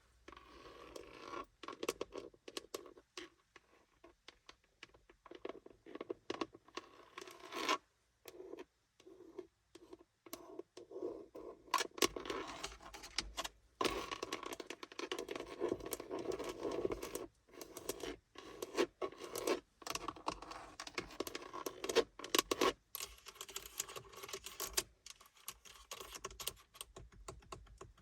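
Close-miked scratching and tapping on a car's surfaces, a dense run of scratchy strokes with many short sharp taps and a few brief pauses.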